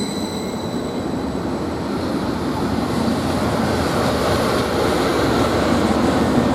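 Greater Anglia Class 755 bi-mode unit approaching on its diesel engines, its rumble and wheel noise growing steadily louder.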